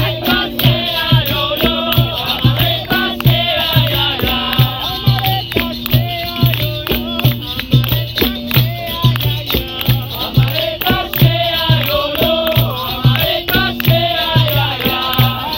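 Live capoeira roda music: voices singing in call-and-response style over a steady low drum beat, with sharp hand percussion and rattling throughout.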